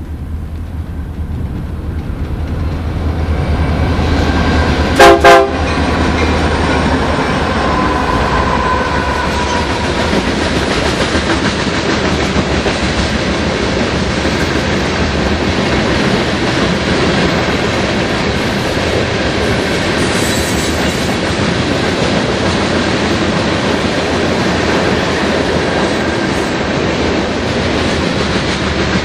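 Union Pacific diesel freight train passing close by. The locomotives' engine rumble builds as they approach, and about five seconds in there are two very short, loud horn toots. After that comes the steady rumble and clickety-clack of covered hopper cars rolling past.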